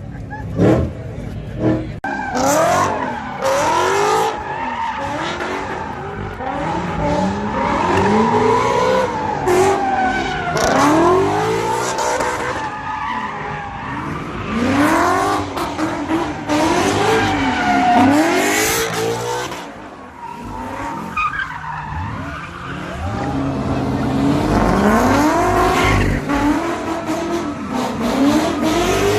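A car engine revving up and down over and over, with tires squealing and skidding, as a car spins donuts. The revving eases briefly about two-thirds of the way through, then builds again.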